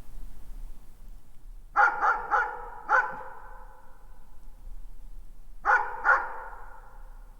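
A dog barking at a distance: a quick run of four barks, then two more a few seconds later, each trailing off in an echo.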